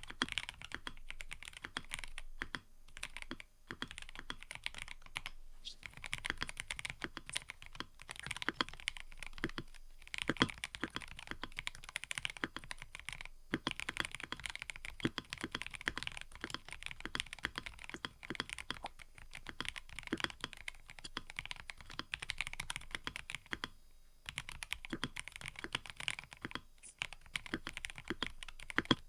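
Fast, continuous typing on a mechanical keyboard: a dense run of key clacks, broken by several short pauses.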